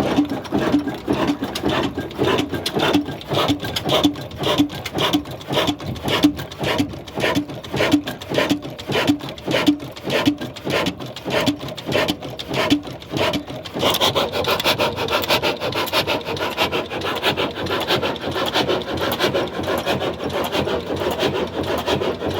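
Old black stationary diesel engine running slowly, with an even beat of about two strokes a second; about fourteen seconds in the beats blur into a denser, harsher running sound.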